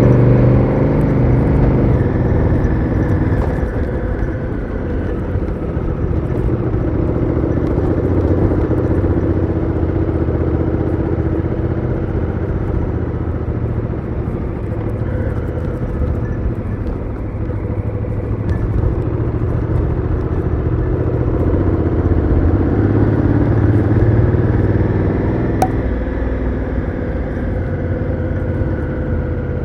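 Honda Africa Twin CRF1000L's parallel-twin engine running through its stock exhaust while riding, with the revs easing off a few seconds in and building up again near the end. A single sharp click near the end.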